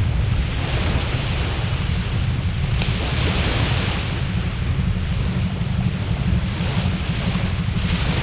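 Wood bonfire burning with a steady rush and a few sharp crackling pops, with wind rumbling on the microphone.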